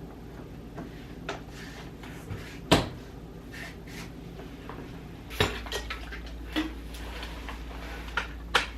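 A run of sharp household knocks and clatters, like cupboards, drawers or a door being shut, with the loudest knock about three seconds in and another about five and a half seconds in.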